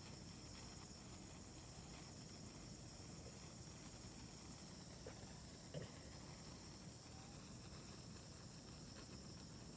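Faint steady chorus of night insects, a continuous high trilling at several pitches, with a few faint scattered ticks and one brief soft sound about six seconds in.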